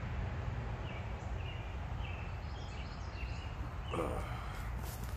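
A bird chirping in short notes repeated about every half second over a low steady rumble, with a brief louder sound about four seconds in.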